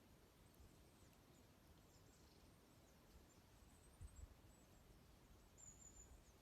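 Faint, high, thin chirps of small songbirds calling on and off, with a slightly louder short call just before six seconds in. Soft low thumps come at about four seconds.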